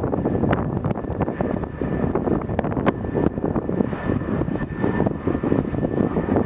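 Airliner engines running, with a faint steady whine above a rough rumble, mixed with heavy wind buffeting on the microphone.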